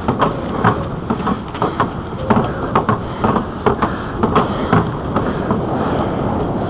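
Riding noise from a bicycle on a trail: wind rushing over the microphone, with irregular clicks and knocks as the bike and camera jostle over the surface.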